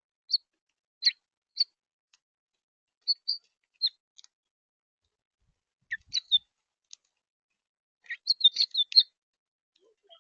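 Wild birds chirping: short single chirps every second or so, then a quick run of chirps about eight seconds in.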